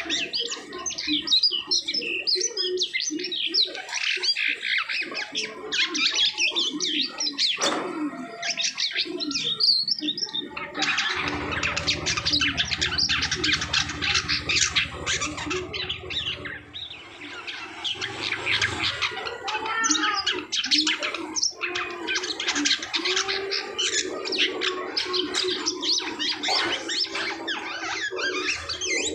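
Black-winged starling singing a long, dense run of rapid chattering, whistled and harsh notes, with barely a break. A low hum sits under the song for a few seconds near the middle.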